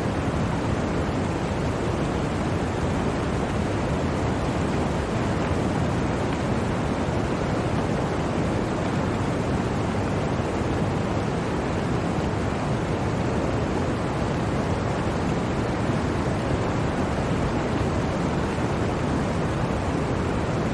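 Blizzard wind: a steady, even rushing noise with no distinct gusts, heaviest in its deep range.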